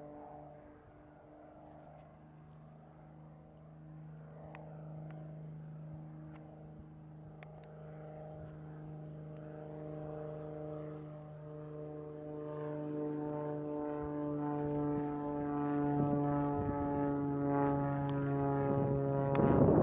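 Beechcraft Bonanza's six-cylinder piston engine and propeller droning at a steady pitch, growing gradually louder as the plane comes back around. Wind gusts on the microphone at the very end.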